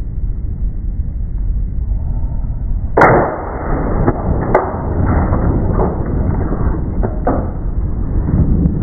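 Strong wind buffeting the microphone as a steady low rumble. A sharp knock about three seconds in is the loudest sound, followed by a few lighter knocks.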